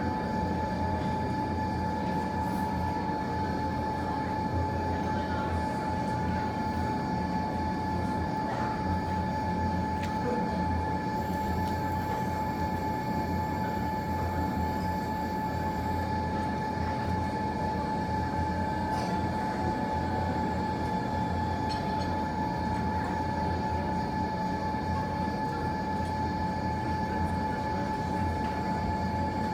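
Steady mechanical hum with a constant high whine over a low rumble, unchanging throughout; a few faint clicks show through it.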